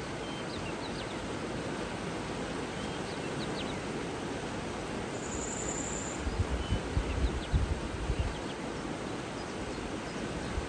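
Outdoor nature ambience: a steady rushing noise with faint, scattered bird chirps and one brief high trill about five seconds in. Uneven low rumbles of wind on the microphone come between about six and eight seconds.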